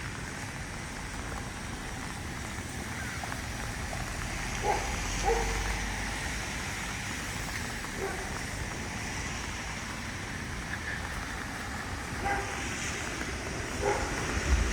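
Steady hiss of heavy rain with a low traffic rumble, strongest about five seconds in. A few short distant calls come through around five seconds in and again near the end.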